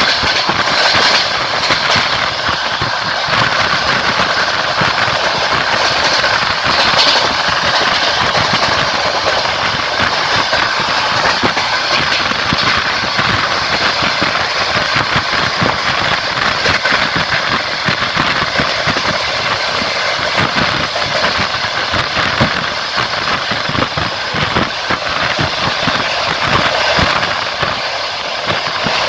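Passenger train running along the track, heard from a carriage window: a steady rush of wheel-and-rail noise with scattered clicks of the wheels.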